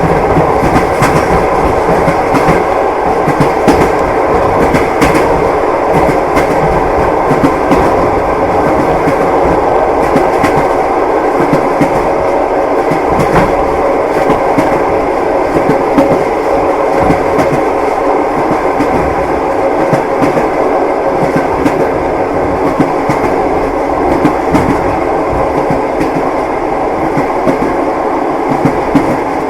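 Train wheels running over rail joints with a steady clickety-clack and a continuous rumble, as heard from inside a passenger carriage.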